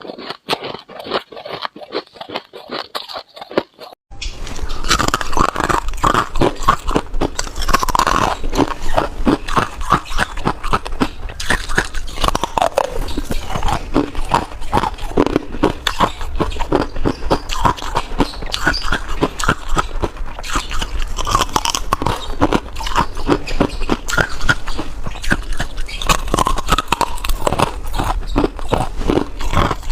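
A person biting and chewing freezer frost, a dense run of close, crisp crunches. About four seconds in the crunching gets louder and fuller, with a low hum underneath.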